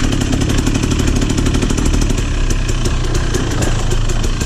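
Trail motorcycle engine running steadily with a rapid, even firing rhythm.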